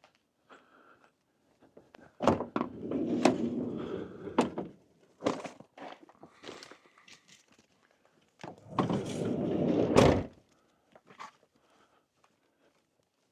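A minivan's sliding door rolling along its track twice, each run about two seconds long and marked by sharp knocks and a thunk, with smaller clicks and knocks in between.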